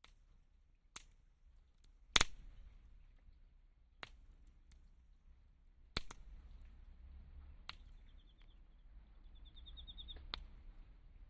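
Wood fire in a small fire pit, snapping and popping with about six sharp cracks, the loudest two seconds in. A faint fizzing hiss rises near the end.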